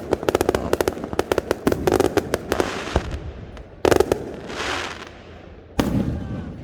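Aerial fireworks going off: a fast salvo of sharp bangs for about three seconds, then a single louder burst about four seconds in, followed by a hissing crackle, and another bang near the end.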